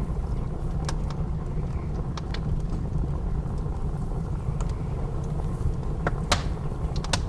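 Wood fire crackling with scattered sharp pops, the loudest pair about six seconds in, over the steady low rumble of blizzard wind.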